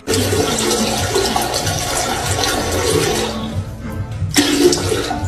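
Rushing water that starts suddenly and dies away after about three and a half seconds, with a brief noisy burst a little later.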